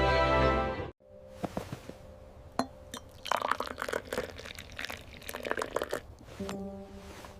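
Music cuts off about a second in, followed by crockery clinking and a stretch of liquid pouring between about three and six seconds in, with a few sharp clinks around it.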